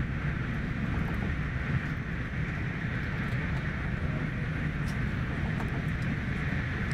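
Steady running noise of an SJ X2000 train heard from inside the passenger car: a continuous low rumble with a hiss above it and a few faint ticks.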